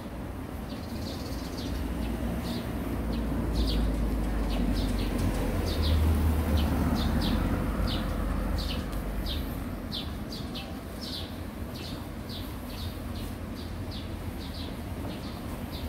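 A small bird chirping over and over, about two short chirps a second. Under it is low street traffic rumble that swells and fades as a vehicle passes about halfway through.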